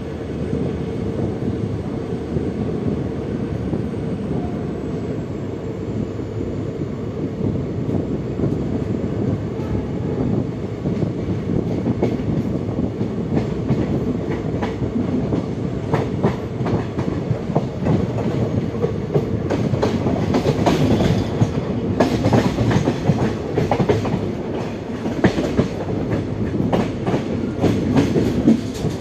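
Indian Railways passenger train running, heard from an open coach door: a steady rumble of the coach with wheels clacking over the track. The clacks become more frequent and louder in the second half.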